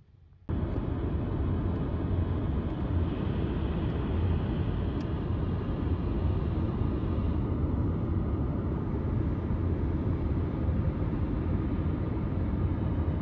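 Steady noise inside a car driving through a heavy rainstorm: a low rumble with a hiss of rain and road spray and a few faint ticks. It starts abruptly about half a second in.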